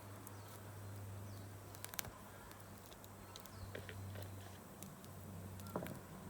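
Wood campfire crackling softly, with sharp pops about two seconds in and near the end, over a steady low hum.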